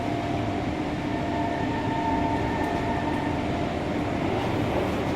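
Kawasaki C151 metro train running between stations, heard inside the carriage: a steady rumble of wheels on track with a faint steady whine from the drive that fades out after about three and a half seconds.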